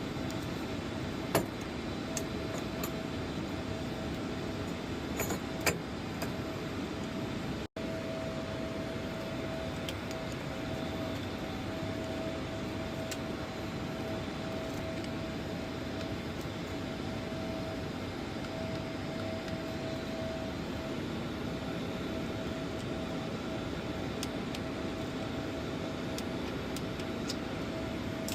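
Steady mechanical drone with a constant mid-pitched whine. A few light metallic clicks of small parts and clamps being handled come through it, the clearest about a second in and around five seconds in.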